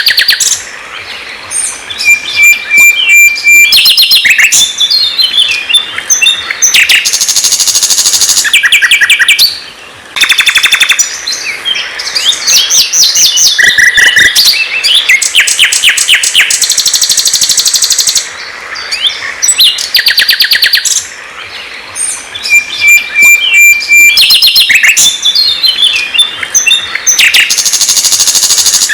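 Recorded songbird song, loud and continuous: varied whistled phrases broken by fast rattling trills and buzzy runs. It is a birdsong training track mixing sikatan londo song with white-rumped shama song, and the same run of phrases repeats about 20 seconds later, as in a looped recording.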